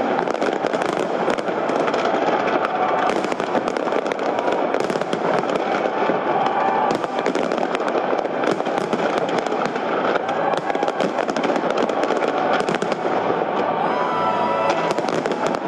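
Large fireworks display at full intensity: a continuous barrage of bangs and crackles from shells bursting in quick succession, with no pause.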